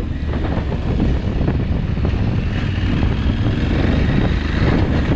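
Adventure motorcycle engine running under throttle off-road, with wind buffeting the helmet microphone. The rear wheel is struggling for traction on the loose, snowy ground.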